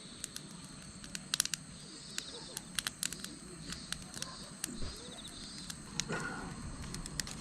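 Campfire kindling crackling with sharp, irregular snaps and clicks as it starts to catch. Crickets chirp faintly in the background.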